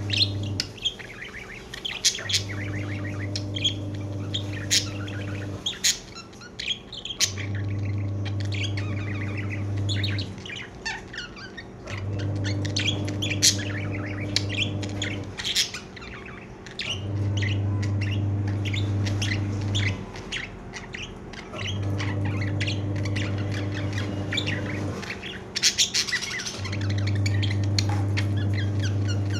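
Pet budgerigars chirping and squawking in quick, high calls. Under them, a low hum switches on for about three seconds and off for about one and a half, over and over.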